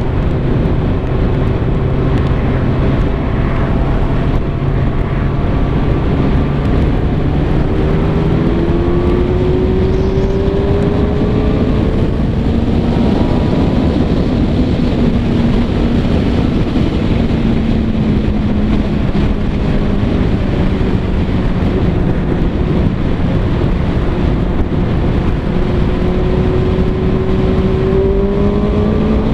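Kawasaki ZX-6R 636 inline-four engine running at highway speed over a heavy rush of wind and road noise. The engine note holds steady, climbs about a third of the way in, drops as if on an upshift, then climbs again near the end.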